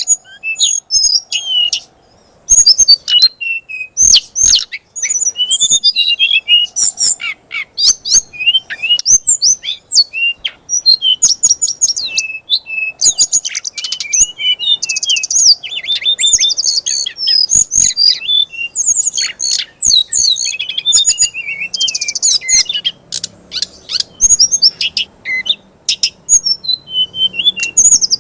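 A caged songbird's loud, rapid, varied song: dense chirps, whistles and buzzy trills with sharp clicks between them. It is a 'fighter' song of the kind bird keepers play to provoke a Kacer (oriental magpie-robin) into aggressive singing.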